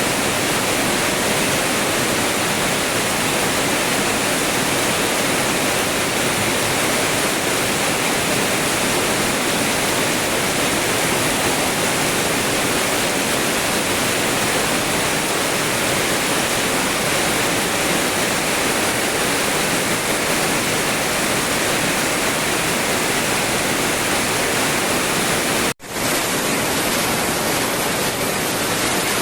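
Heavy rain pouring down in a dense, steady hiss, cut off for a split second near the end before resuming.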